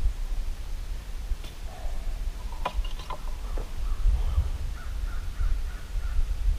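A few short bird calls over a steady low rumble.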